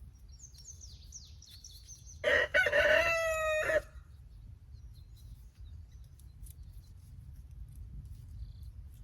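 A rooster crows once, a loud call of about a second and a half starting about two seconds in. Small birds chirp faintly just before it.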